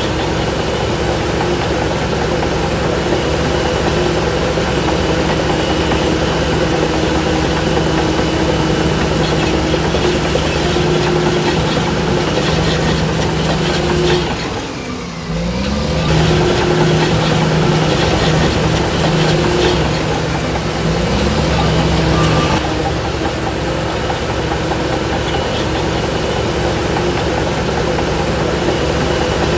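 Heavy diesel engines of earthmoving machinery running steadily under load. About halfway through the sound briefly drops away, then an engine's pitch rises as it revs up and holds.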